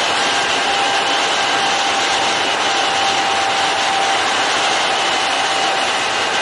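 Kintetsu electric commuter train running along the line, a steady rumble of wheels on rail with faint steady whining tones.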